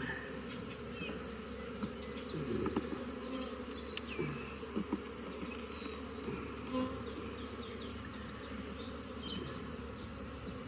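Honeybees buzzing around an open hive as a steady hum, with a few light knocks and clicks scattered through it.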